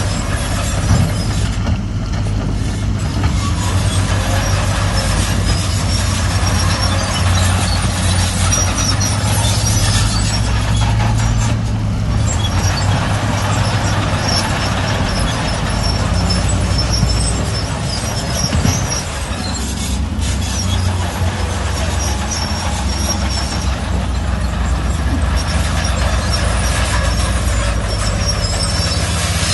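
Crawler bulldozer's diesel engine running steadily under load, with its steel tracks clanking and squealing.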